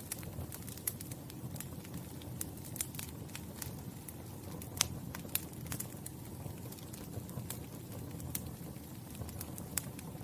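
Wood fire burning with a steady low rumble and irregular sharp crackles and pops, a couple of louder pops about halfway through.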